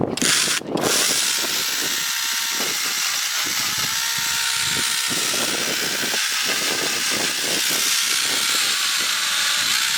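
A Kingson 10.8 V cordless chainsaw running and cutting through wood. After a brief burst at the start, the chain settles into a steady, loud hiss with a faint electric-motor whine underneath, beginning just under a second in.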